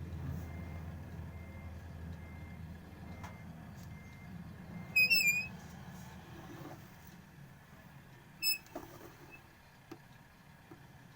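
Vehicle running at low speed, its low rumble fading away after about six seconds, with a faint repeating electronic beep like a reversing or parking-sensor alarm in the first half. Short high squeaks cut through about five seconds in, the loudest sound, and again near nine seconds.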